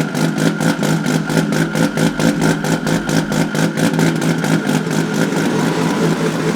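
A car engine running at steady revs, its pitch holding level, with a regular pulsing of about six beats a second. It is most likely the Nissan Skyline R32's billet RB28 straight-six.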